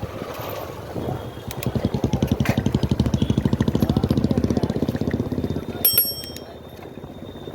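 A small engine running close by with a rapid, even putter, loudest in the middle. About six seconds in there is a short, bright ring of several high tones, like a bell or horn, before it fades.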